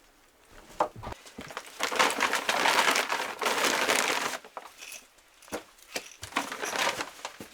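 Rustling and crinkling of material being handled and gathered up, with a few sharp knocks; loudest from about two to four and a half seconds in.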